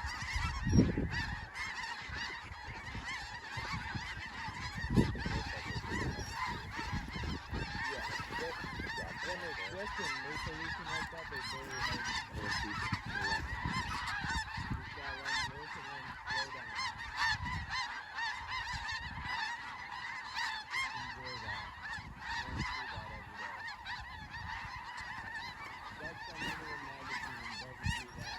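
Large flock of snow geese calling continuously, a dense wall of overlapping high-pitched honks. A couple of dull low thumps stand out, the loudest about a second in and another about five seconds in.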